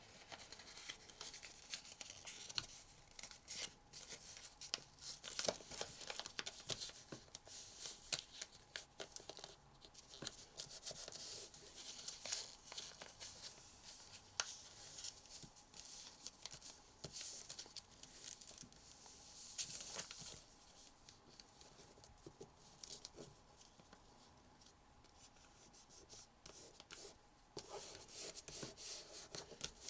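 Paper being folded and creased by hand: irregular crinkling, rustling and sharp little crackles of the sheet, quieter for a few seconds near the end.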